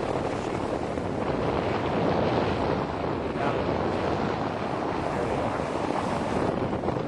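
Steady wind buffeting the microphone aboard a sailboat under sail, with water washing along the hull.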